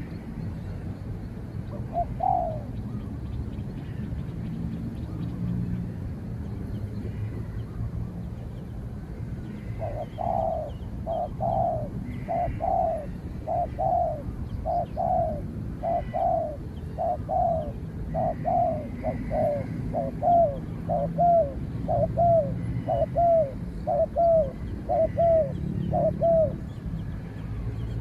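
Spotted dove cooing: one call about two seconds in, then from about ten seconds a long run of short, evenly spaced coos, a little more than one a second, each dropping slightly in pitch.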